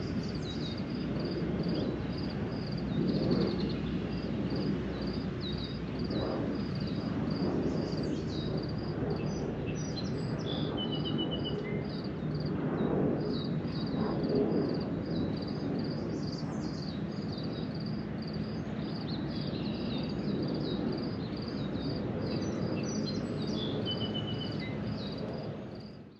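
Songbirds chirping over a steady low wash of background noise: one bird repeats a short high chirp about two or three times a second, and others add occasional brief trills and quick sweeps. It all fades out near the end.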